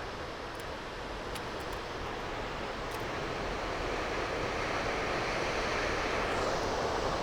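Steady rushing roar of a waterfall, growing gradually louder.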